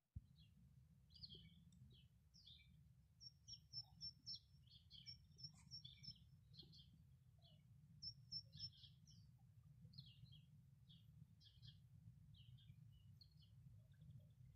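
Faint chirping of small birds: scattered short calls with a few quick runs of repeated high notes, over a low steady rumble.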